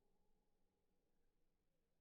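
Near silence, with only faint wavering tones barely audible.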